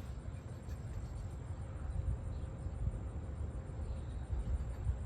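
Kichler Basics Pro Designer 52-inch ceiling fan running, a steady low rumble with a faint steady hum; the owner says its capacitor is really bad.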